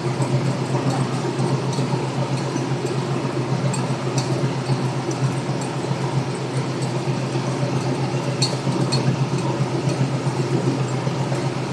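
Steady low drone of a squid-fishing ship's engines and machinery, with scattered light clinks.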